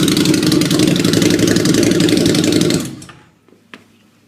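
Harley-Davidson V-Rod Night Rod Special's liquid-cooled V-twin running loud and steady at idle through a Ground Pounder aftermarket exhaust, then shut off nearly three seconds in, dying away within half a second. A single click follows shortly after.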